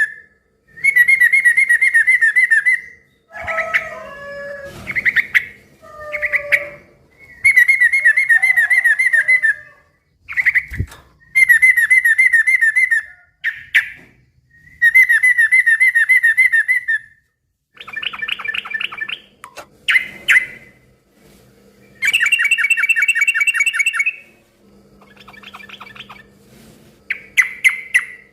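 Yellow-vented bulbul singing a loud, rapid chatter in repeated bursts of about two seconds each, with shorter, lower calls in between.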